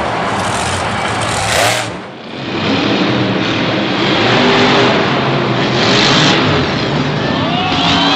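Monster truck engine revving hard at full volume, dipping briefly about two seconds in before picking up again.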